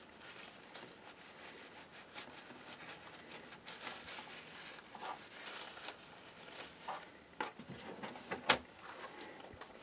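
Faint rustling and scraping of hands working on the opened laptop, cleaning off the old thermal paste, with a few small clicks; the sharpest click comes about 8.5 seconds in.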